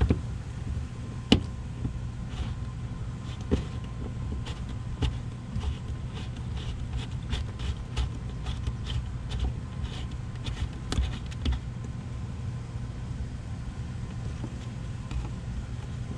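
Scattered clicks and knocks of a water hose and its fittings being handled and connected at a camper trailer's city-water inlet, with one sharp click about a second in, over a steady low hum.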